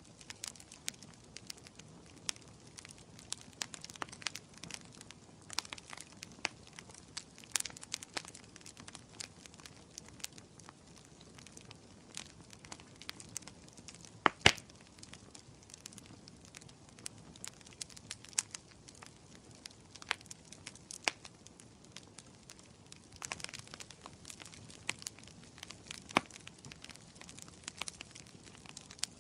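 Wood fire crackling in a fireplace: irregular sharp pops and snaps over a soft hiss, with a loud pop about halfway through and another near the end.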